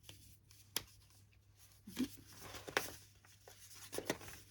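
Paper and card of a handmade altered book being handled: a few short rustles and soft taps as its pockets and tags are moved.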